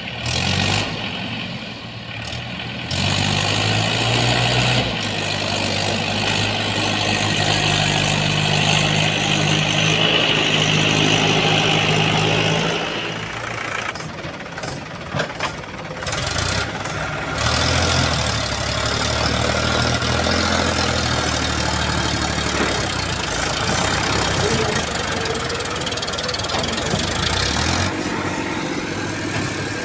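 Heavy diesel engine working at the loading site, pitch and level rising in two long stretches of higher revs, with a quieter dip at lower revs between them.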